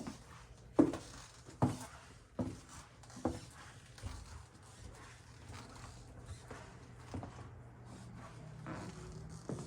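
Footsteps of a person walking with the camera: four clear steps less than a second apart, then fainter steps and handling, over a low steady hum.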